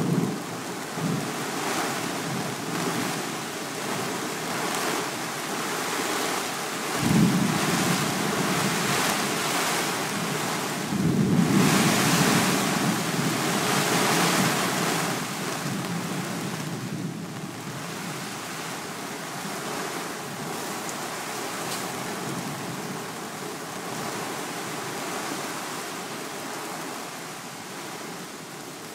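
Thunderstorm wind and heavy rain, a steady rushing that swells suddenly about seven seconds in and more strongly a few seconds later, then eases off.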